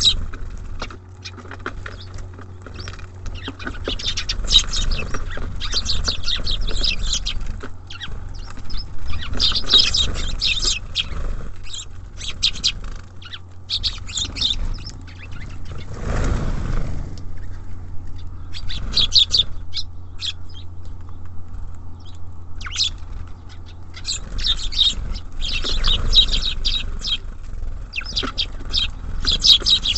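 Small songbirds at a feeder chirping in repeated bursts of rapid, high chirps, over a steady low rumble. A brief whoosh about halfway through.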